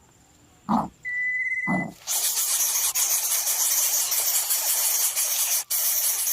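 Two short low sounds, then from about two seconds in a loud, steady hiss, typical of greater coucal nestlings hissing at the nest.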